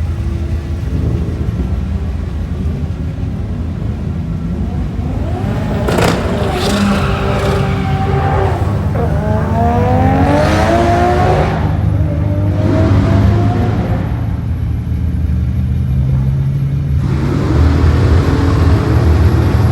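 Drag race car engines rumbling at low revs, then revving with rising pitch several times; one run climbs steadily through gears about nine to twelve seconds in. A sudden sharp crack comes about six seconds in.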